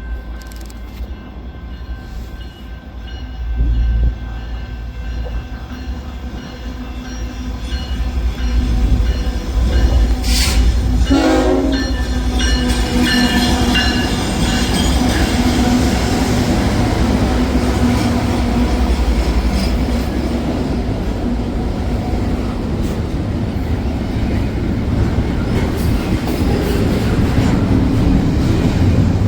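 A train approaching and passing, its horn sounding, then the steady rumble and rail noise of the cars going by, which swells about eight seconds in and carries on.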